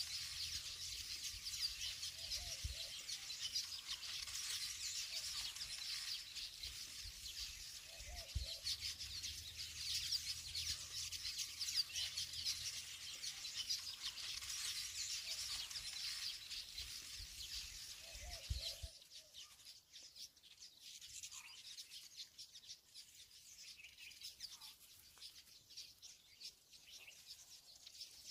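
Many small birds chirping in a dense, continuous twitter, with a few short low thumps underneath. About two-thirds of the way through it drops off abruptly to faint, scattered chirps.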